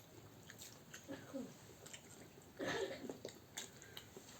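Faint close-up chewing and biting sounds with small wet clicks from people eating chicken biryani and kabab. A short, louder mouthful sound comes a little past halfway.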